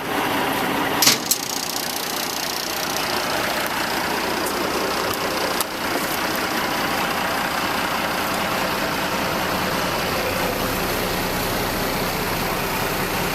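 Diesel engine idling steadily, with a brief click about a second in.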